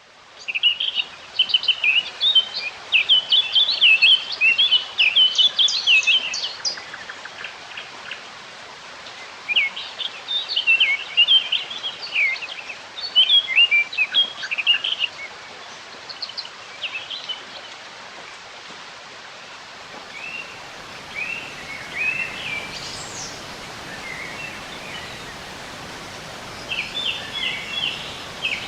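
Songbirds singing in quick, twittering bouts of chirps over a steady background hiss. The birdsong is fainter and more scattered in the last third.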